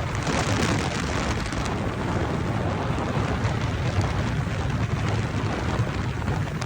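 Steady rushing road and wind noise from a vehicle on the move, with a low rumble underneath.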